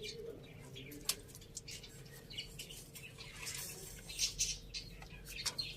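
Chickens feeding: many sharp taps, as of beaks pecking at food, with short high chirps and squawks that are loudest about three and a half to four and a half seconds in.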